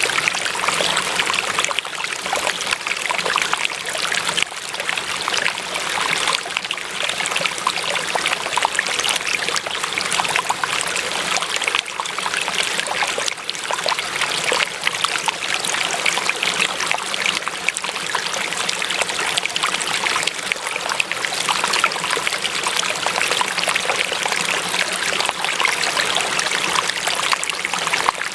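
Water running and trickling steadily, a continuous bubbling flow like a small stream.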